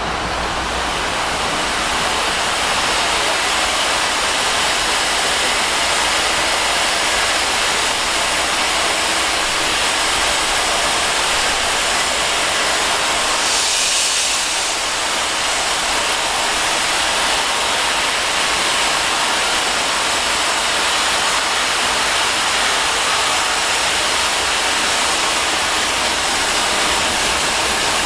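Steam locomotive letting off steam: a loud, steady hiss, with a brief brighter surge about fourteen seconds in.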